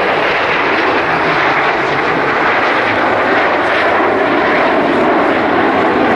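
Loud, steady jet noise from the Iskra team's PZL TS-11 Iskra trainers flying their display.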